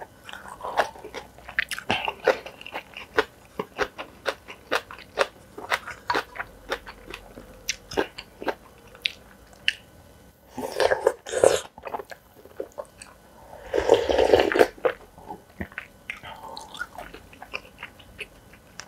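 Close-miked eating: steady chewing and crunching with many sharp clicks of food being bitten, broken by two louder noisy stretches of about a second each, around eleven and fourteen seconds in.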